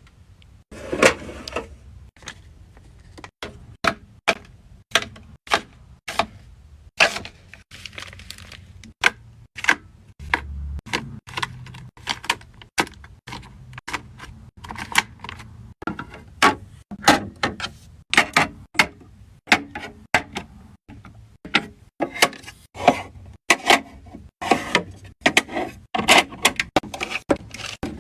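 Skincare bottles and jars being set down and knocking against each other and the fridge shelves: a string of sharp clicks and taps at irregular intervals, coming faster toward the end.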